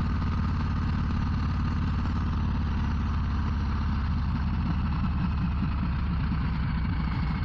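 Harley-Davidson Low Rider ST's Milwaukee-Eight 117 V-twin engine running steadily at low revs, its exhaust pulsing.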